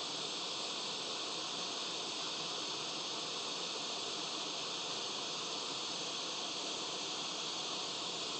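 Hot-air rework station blowing with a steady hiss.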